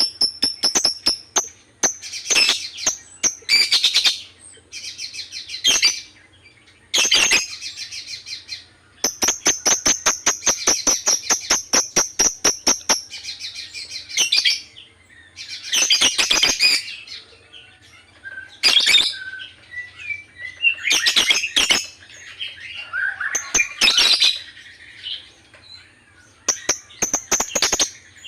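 Lovebird chirping: runs of rapid, evenly spaced sharp chirps at about five a second, broken by dense bursts of shrill chattering calls.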